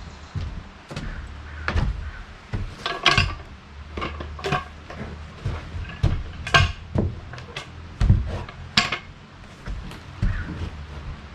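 Irregular metallic clanks and knocks, about a dozen, unevenly spaced, from working a big log on a small band sawmill.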